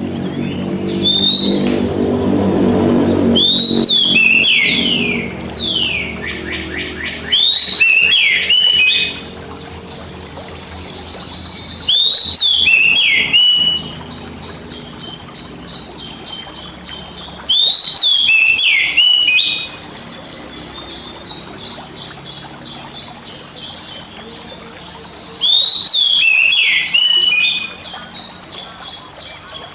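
Oriental magpie-robin (kacer) song, a recording played to train a pet bird: loud bursts of rising and falling whistled phrases every few seconds, with rapid chattering trills in between. A low droning sound fades out over the first few seconds.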